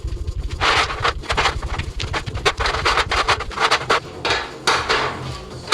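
Irregular run of sharp knocks and scraping noises, several a second.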